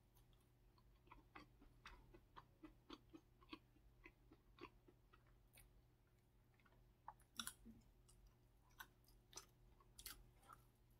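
Faint close-miked chewing, a string of soft mouth clicks a few times a second.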